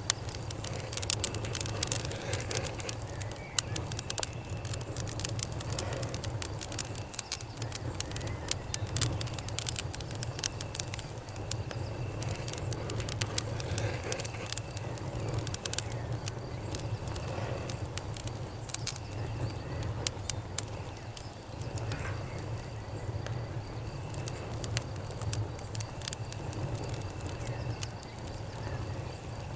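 Campfire crackling, with irregular sharp pops that come thickest in the first half, over a steady low rumble. Crickets chirp faintly in the background.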